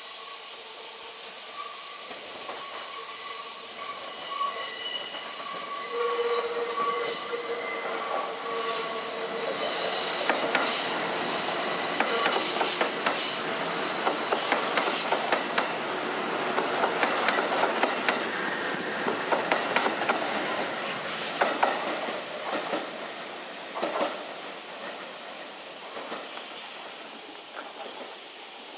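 Kintetsu 20000-series "Raku" charter train passing over curved track and points. Its wheels squeal in several steady high tones as it approaches, then the cars go by with loud, rapid clatter over rail joints and points, fading away over the last few seconds.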